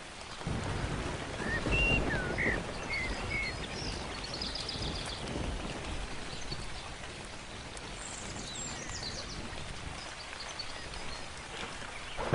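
Steady rain falling, with a low roll of thunder that builds about half a second in and peaks around two seconds. Birds chirp and trill over the rain.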